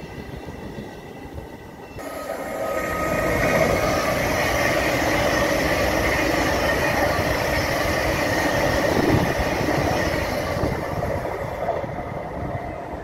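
Greater Anglia electric multiple unit running past along the platform. Its sound swells from about two seconds in into a steady rumble of wheels on rail with a steady whine, then eases off near the end.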